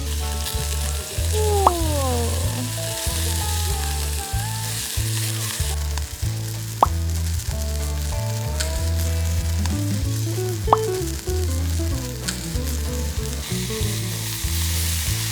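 Meat skewers sizzling over hot charcoal, a steady hiss with a few sharp pops, under background music with a repeating bass line.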